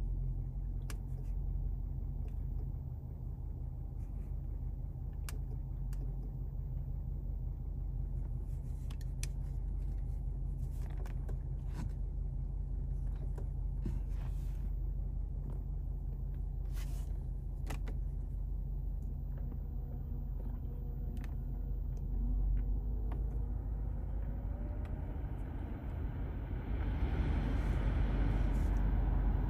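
Steady low rumble of the BMW M850i's 4.4-litre twin-turbo V8 idling, heard from inside the cabin, with a few faint clicks. About three-quarters of the way in, a hiss of air from the dashboard vents swells in.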